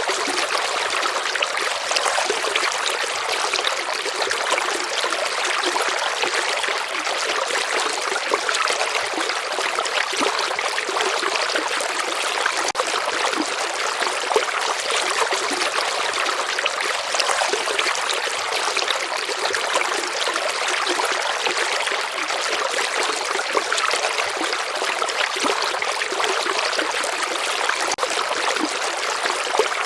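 A slow-flowing river running steadily: an even trickling rush of water with almost no low rumble.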